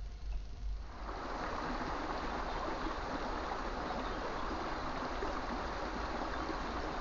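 Small stream's water rushing and babbling steadily, starting suddenly about a second in; before that, a low rumble.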